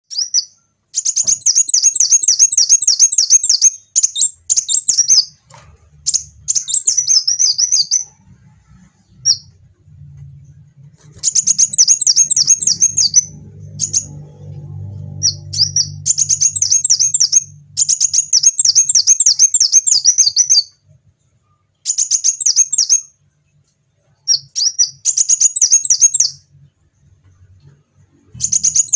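A kolibri wulung sunbird singing in repeated high-pitched, rapid trilling phrases, each one to a few seconds long, broken by short pauses. A faint low hum sits beneath the song around the middle.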